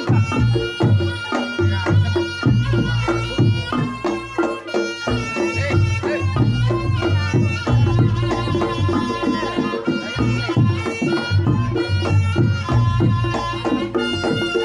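Reog Ponorogo gamelan music: a slompret, a nasal double-reed shawm, plays a held, wavering melody over kendang drumming and a steady pulse of deep beats.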